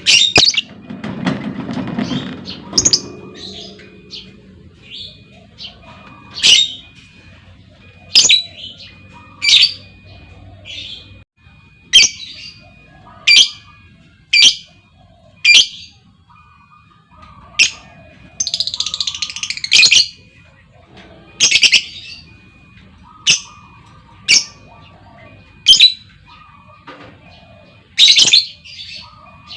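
Female lovebird giving loud, sharp, shrill calls, one every second or so, with one longer, harsher call about two-thirds of the way through. A low rustle sits under the first few seconds.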